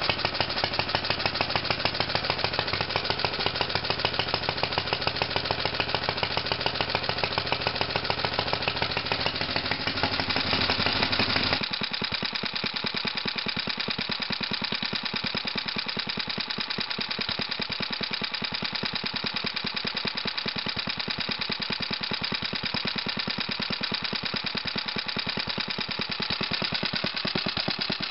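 Old Briggs & Stratton Model 6-S single-cylinder gas engine running with a rapid, even popping exhaust beat. About halfway through the sound thins and turns a little quieter, losing its deep part, while the beat carries on.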